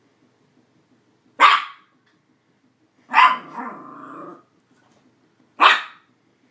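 A pet dog barking three times, sharply, the second bark drawn out for about a second.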